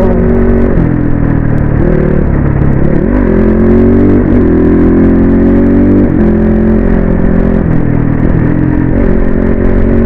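Dirt bike engine running at road speed, its note dipping and climbing back several times, over a steady low rumble of wind on the microphone.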